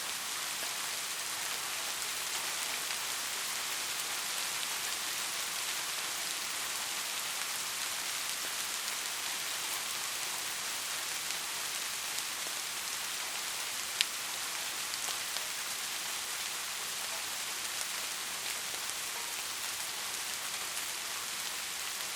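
Steady rain falling, an even hiss heavy in the high range, with one sharp tick about two-thirds of the way through.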